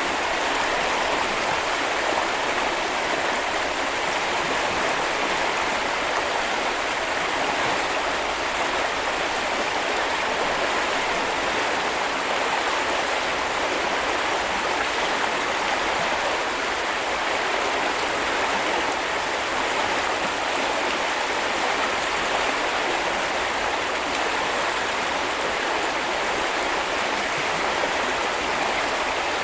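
A river's water running and splashing over stones, a steady rushing sound that stays even throughout.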